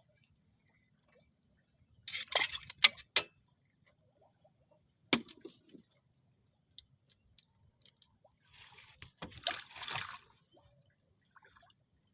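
Water splashing and sloshing in short bursts, with a sharp knock about five seconds in and a longer bout of splashing near the end.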